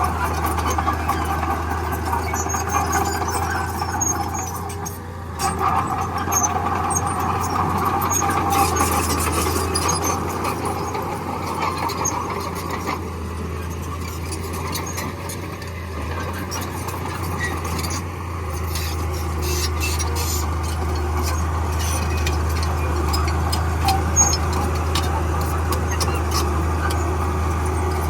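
Crawler bulldozer working: a steady low diesel drone with a wavering high squeal and scattered clicks and clanks from its steel tracks. A brief dip about five seconds in.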